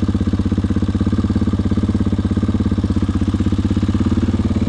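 KTM 500 EXC single-cylinder four-stroke enduro engine idling steadily with an even, rapid beat: a happy sound, running cleanly again after it sucked water in through the air filter and the filter was dried.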